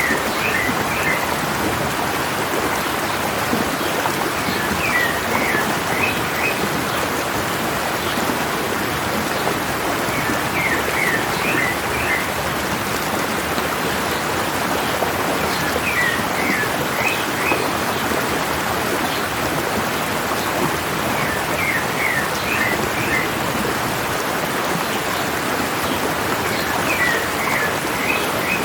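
Water of a stream running down a mountainside, a steady even rush. Over it a bird sings the same short phrase of several quick notes about every five or six seconds.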